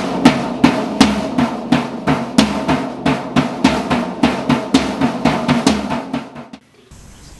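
Drum kit being played: a fast run of snare and bass drum strikes, about four a second, that stops about six and a half seconds in.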